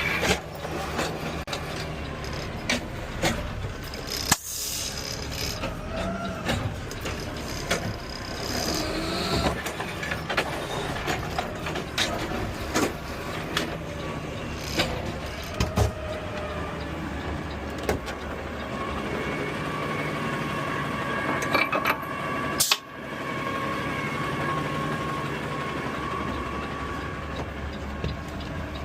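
Peterbilt automated side-loader garbage truck running, heard from the cab, with scattered clicks and knocks. A sharp knock comes about three quarters of the way through, and a steady whine runs through the last third.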